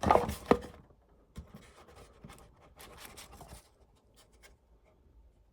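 Paper being handled: two sharp knocks at the start, then light scratchy rustling and scraping for a few seconds, fading to a few faint ticks.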